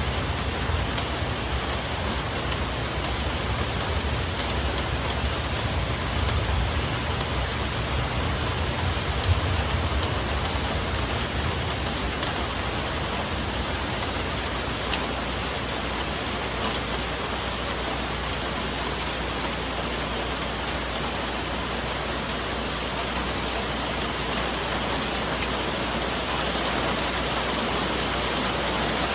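Steady rain falling on forest foliage, an even hiss with fine individual drop ticks. Under it, a low rumble dies away about ten seconds in.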